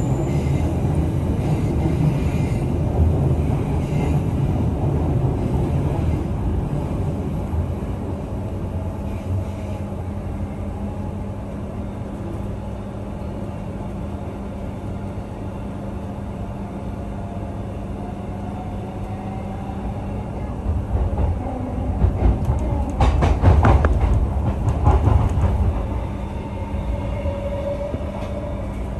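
Queensland Rail electric suburban train running on the track: a steady low rumble with a constant hum. The rumble eases off in the middle, then grows louder with a quick run of clicks about three-quarters of the way through. Near the end a faint whine bends in pitch.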